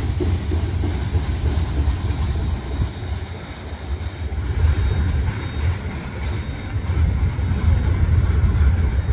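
Freight train of tank cars rolling by: a steady low rumble that eases a little a few seconds in, with a faint thin high tone for a couple of seconds in the middle.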